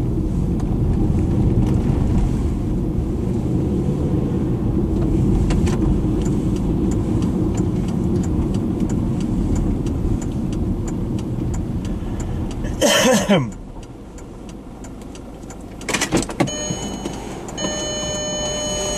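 Car cabin noise while driving, with a steady low rumble, until about two-thirds of the way in. A brief loud sweep falling in pitch follows, then the rumble drops away as the vehicle stops. A few clicks follow, then a steady electronic warning tone sounds near the end.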